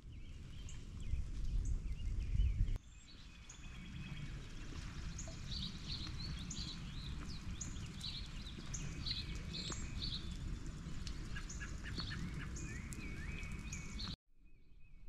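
Small songbirds chirping outdoors: a busy run of short, high notes over low, steady outdoor ambience. In the first few seconds a low rumble comes before the birds and stops abruptly.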